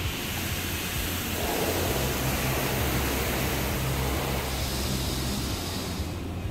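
Car wash water jets spraying against a car's body, heard from inside the cabin as a steady hiss over a low hum. The spray starts at once and stops just before the end.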